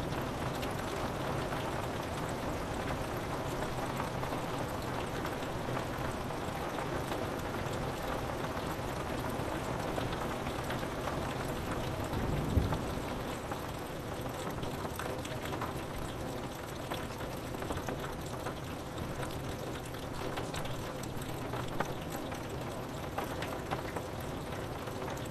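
Steady rain pattering on a window pane, with a brief low thump about halfway through.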